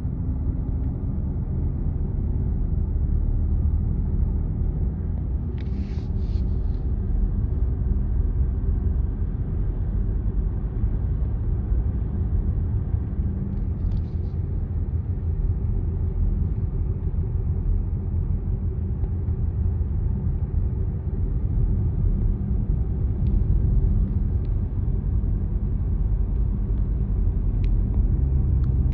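Car driving along steadily: a constant low rumble of engine and tyre road noise. A couple of brief high crackles come about six and fourteen seconds in.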